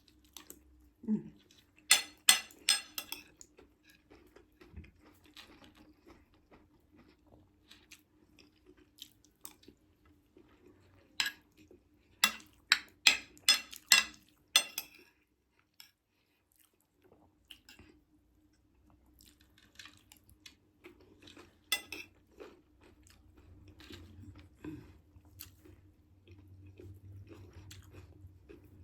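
A person eating close to the microphone: chewing, with a few clusters of sharp crunching clicks and quieter stretches between them.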